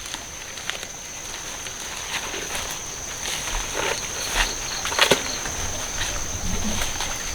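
Steady high-pitched drone of insects, with plant rustling and a few sharp cracks scattered over it, the loudest about four and a half and five seconds in.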